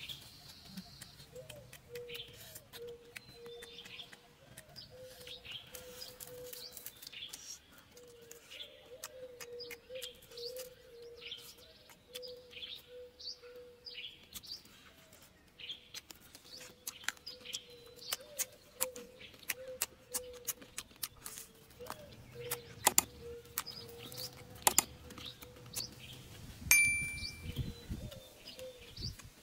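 Forest birds chirping in short repeated calls, with scattered sharp clicks that grow louder later on. Near the end comes a bright bell-like ding from a subscribe-button sound effect.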